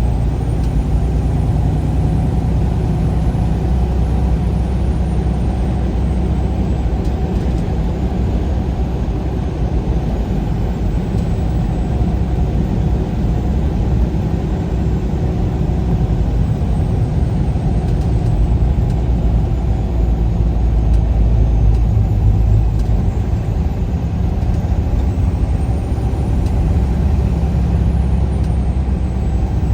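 Road vehicle driving, a steady low engine and road rumble that grows slightly louder about two-thirds of the way through.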